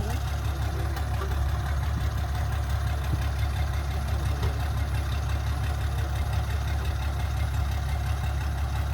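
Excavator diesel engine idling steadily, a deep, even drone.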